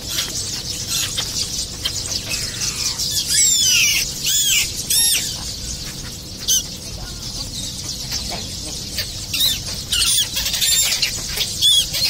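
Birds calling around a feeding flock: short, high, sharp chirps in quick clusters about three to five seconds in and again near the end, over a steady background of more distant bird calls.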